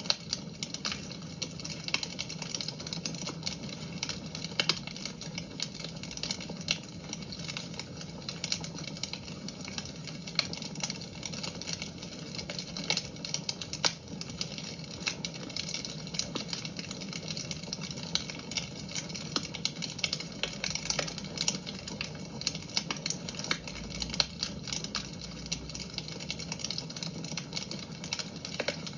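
Wood fire in a fireplace crackling, with many small irregular pops and snaps over a steady low hum.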